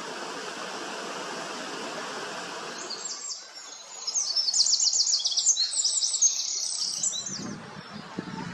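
European robin singing: one phrase of high, quick notes and trills lasting about four seconds, starting about three seconds in, over a steady background hiss.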